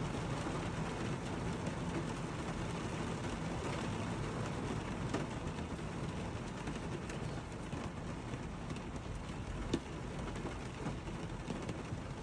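Heavy rain pouring down steadily, an even hiss of rain with scattered drop ticks.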